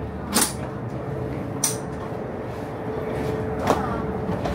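Steady hum of a high-speed train carriage with a faint steady tone, broken by three short sharp clicks or knocks.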